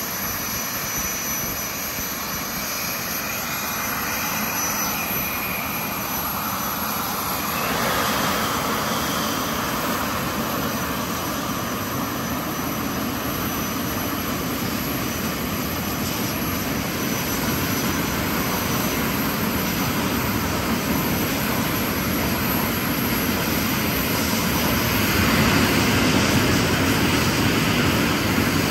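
Steady, loud engine noise of cars at a drag strip, with no clear revving, growing somewhat louder near the end.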